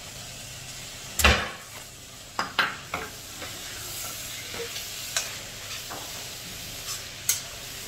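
Pav bhaji vegetable mixture with freshly added spring onions sizzling in a kadhai as a metal spatula stirs and scrapes it. Sharp clacks of the spatula striking the pan come every second or so, the loudest a little over a second in.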